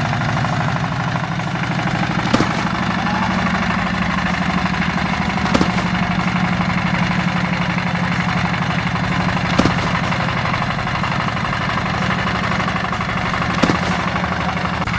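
Tractor engine running steadily with a fast, even chugging. A sharp click sounds four times, three to four seconds apart.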